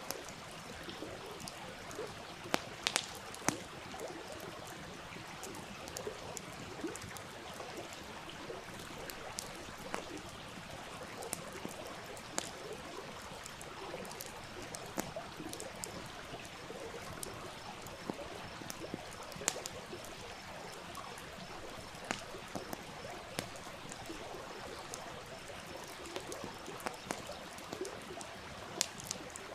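Campfire crackling with scattered sharp pops over a steadily flowing stream.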